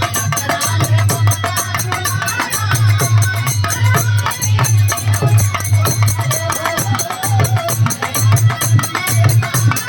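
Instrumental interlude of Bhojpuri birha folk music: a steady, loud drum beat with jingling hand percussion under a melody line.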